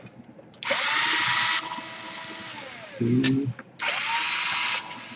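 Small electric screwdriver running in two bursts of about a second each, about a second in and again about four seconds in, its motor whine rising as it spins up and dropping as it stops, backing out the laptop's case screws. A few light clicks fall between the bursts.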